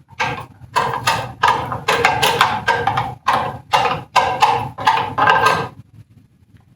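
A spoon scraping and knocking against a bowl in quick repeated strokes, about two or three a second, as chopped onion is scraped out; it stops about a second before the end.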